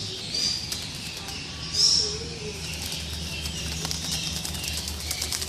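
A small pet bird's wings flapping in rapid flurries as it is caught in the hand, with short high chirps and calls.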